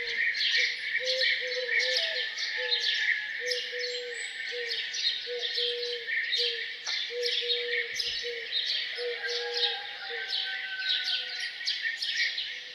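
Many songbirds chirping and trilling together in a morning chorus. Under them, a single low hooting note repeats two or three times a second and stops about ten seconds in.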